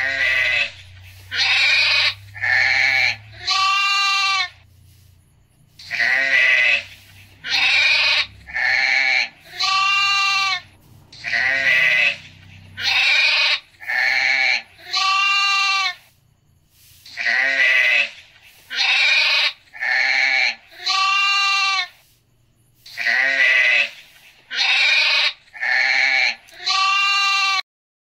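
Sheep bleating: the same run of four bleats repeats five times, the first three in each run rough and the last clearer in pitch.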